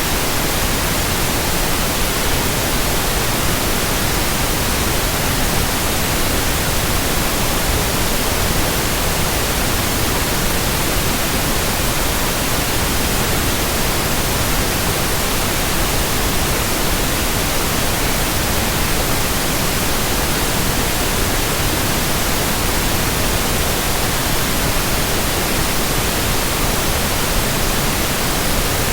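Steady, even white-noise hiss spread evenly from low to high pitches, with no rhythm, swells or blade swish.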